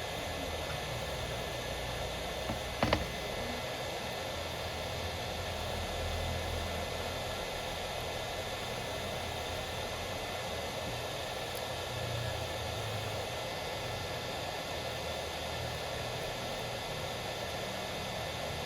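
Steady hiss with a low hum underneath, and one sharp click about three seconds in.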